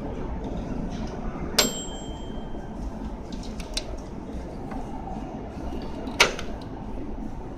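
Two sharp metallic clicks about four and a half seconds apart, the first with a brief ringing tone, over a steady low hum of background noise.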